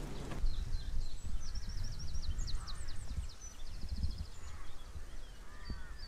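Songbird singing: a quick run of high notes followed by a short rapid trill, over a low rumble.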